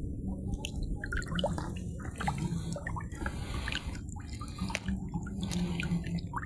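Irregular small water drips and splashes with scattered sharp clicks.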